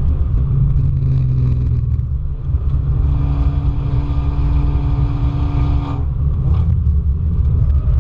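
A car engine running hard, heard on board over heavy low road and wind rumble. The engine note holds steady for a few seconds, then changes abruptly about six seconds in.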